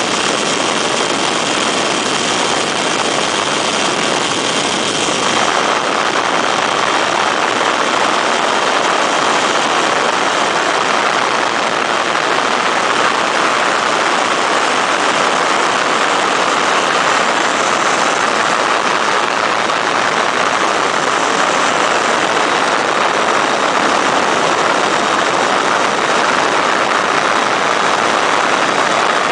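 Weedhopper ultralight's two-stroke engine and propeller running steadily under power, heard through heavy rushing noise; the sound shifts about five seconds in and then holds steady.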